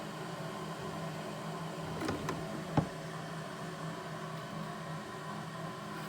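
A steady low mechanical hum, like a running appliance or fan, with a few soft clicks about two seconds in and one sharp tap shortly after.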